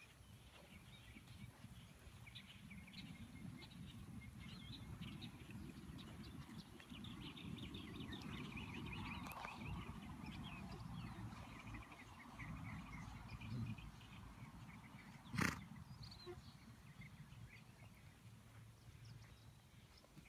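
Small birds chirping in the background over a low outdoor rumble, with one short sharp sound, the loudest, about fifteen seconds in.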